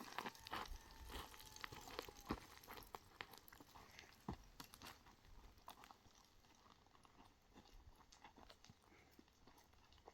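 Near silence with faint, scattered clicks and crunches, most of them in the first half.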